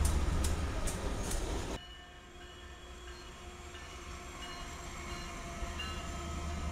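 Train passing with a low rumble and the evenly spaced clack of wheels over rail joints, about two or three a second; it cuts off suddenly after about two seconds to a much quieter low rumble that slowly grows louder.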